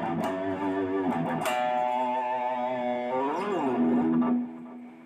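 Legend Les Paul electric guitar being played: a few picked notes, a long held note, then a string bend up and back down about three seconds in, ending on a final note that fades away near the end.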